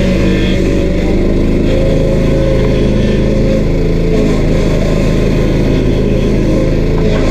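Stump grinder's 13 HP Honda engine running steadily and loud.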